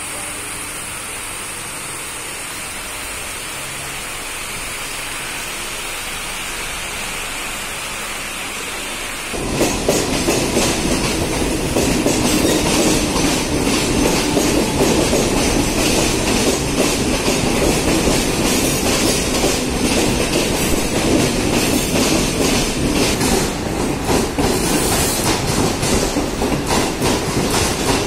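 A steady hiss with a high whine, then, about a third of the way in, a sudden change to a Central Railway EMU suburban local train running along the platform: a loud, continuous clatter and rumble of wheels on rails.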